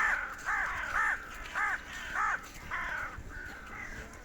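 Crows cawing: a run of about six harsh caws, roughly two a second, followed by a few fainter calls near the end.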